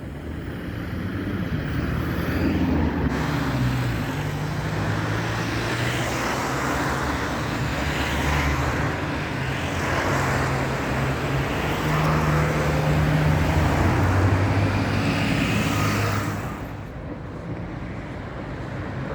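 Street traffic: a vehicle's low motor hum, shifting in pitch in steps as it moves, then dropping away about 16 seconds in.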